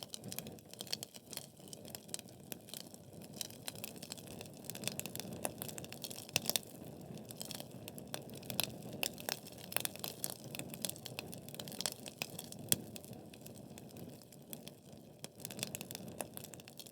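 Logs burning in a wood fireplace: steady crackling with irregular sharp pops, a few much louder than the rest, over a low, even rush of flame.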